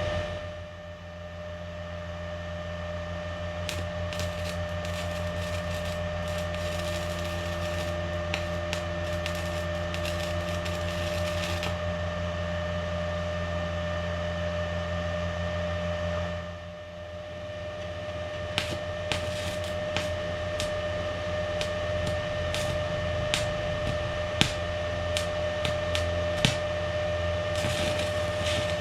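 Welding: irregular crackling of a welding arc in two long spells over a steady electrical hum, with a short break in the middle.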